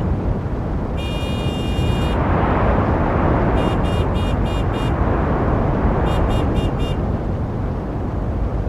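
Steady road-traffic noise with a continuous low rumble. A vehicle horn gives one long blast about a second in, then a quick series of five short toots, and four more toots near the end.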